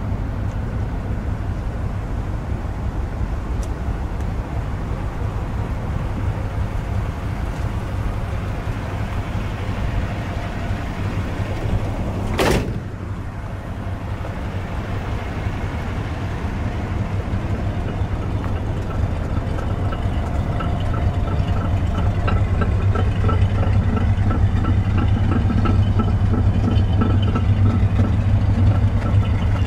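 An engine idling steadily with a low hum, interrupted once by a sharp click about twelve seconds in, and faint regular ticking in the last third.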